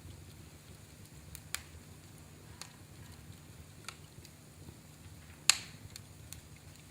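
Wood fire crackling in a fireplace: scattered sharp pops and snaps over a soft low rumble, with one loud pop about five and a half seconds in.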